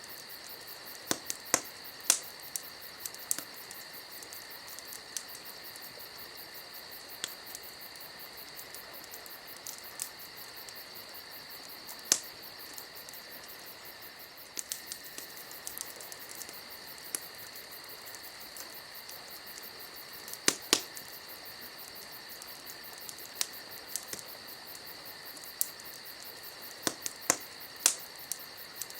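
Campfire crackling, with sharp irregular pops, some in quick clusters. Under them runs a steady high, rapidly pulsing trill.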